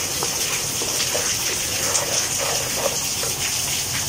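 Steady rushing hiss of heavy rain, with faint scraping and rattling of unpopped popcorn kernels stirred in a nonstick pan with a wooden spoon.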